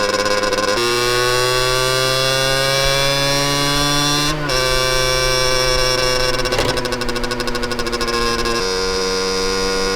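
Honda NS-1's 50cc single-cylinder two-stroke engine running under way, its exhaust note climbing steadily in pitch for a few seconds, then breaking briefly about four seconds in, as at a gear change, before holding a fairly steady pitch.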